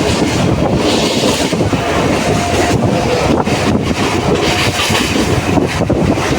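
Train running on the rails, a loud, steady rumble of wheels and carriage.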